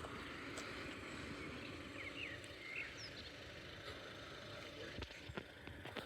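Steady outdoor background noise with a few short bird chirps about two to three seconds in, and a single faint click near the end.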